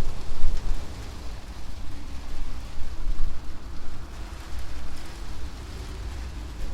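Rain falling on an old corrugated tin roof, with gusting wind rumbling on the microphone. The wind swells strongest in the first second, then rises and falls.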